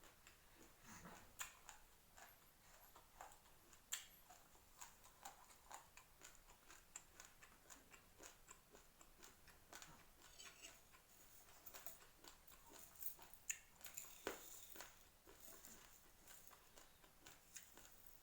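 Raw uncooked rice grains being chewed: a faint, irregular run of small crunching cracks and clicks, several a second, with a few sharper cracks among them.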